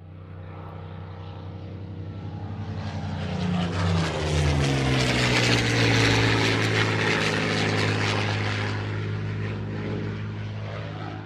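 Propeller-driven aircraft flying past. The sound swells as it approaches, its engine tone drops in pitch as it passes, and it then fades slowly.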